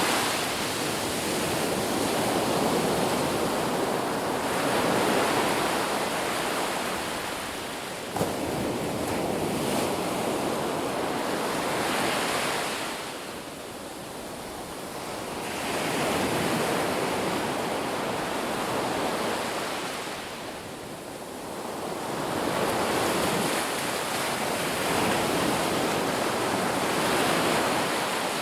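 Ocean surf washing onto a beach: a continuous rush of waves that swells and ebbs, easing into quieter lulls about halfway through and again about two-thirds of the way through.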